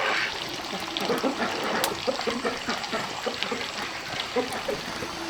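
Water trickling in a small stream: a steady run of small irregular splashes.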